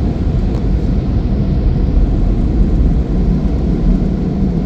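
Steady low rumble of a car, with no distinct events.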